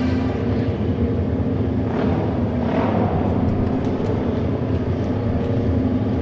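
Auto race motorcycles' engines running steadily on the oval track, with a swell about two to three seconds in as bikes pass close.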